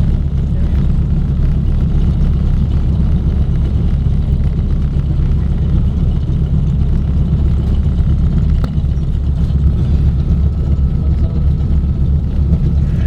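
Junkers Ju 52's three radial engines running with a steady, loud low drone, heard from inside the aircraft's cabin.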